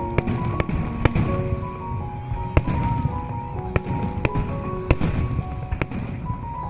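Fireworks display: sharp bangs of shells bursting about once or twice a second over a continuous low rumble, with music playing underneath.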